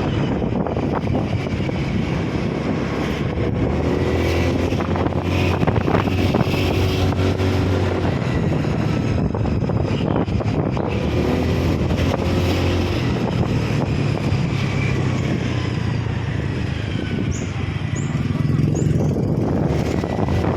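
A vehicle driving along a road, its engine running steadily throughout with road noise.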